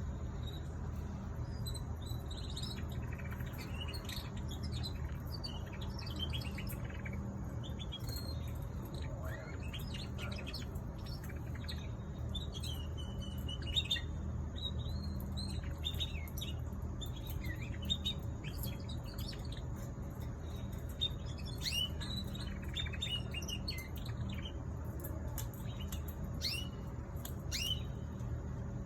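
Canary singing: a run of short chirps and quick warbling trills that come and go throughout, over a steady low hum.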